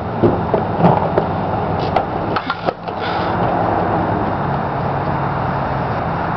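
A car engine idling steadily with a low hum, with a few sharp knocks and clatters of things being handled in the first three seconds.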